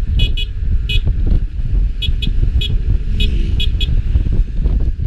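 Street traffic rumble, heavy with wind buffeting the microphone, with about nine very short high-pitched beeps scattered through it, some in quick pairs.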